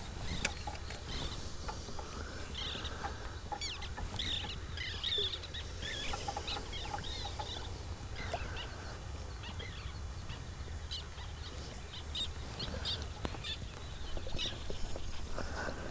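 Several birds chirping and calling, with short high notes scattered throughout, over a low steady hum.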